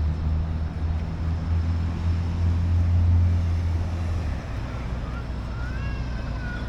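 Street traffic: a motor vehicle's engine running close by as a low steady hum that is loudest about three seconds in and drops away after about four seconds.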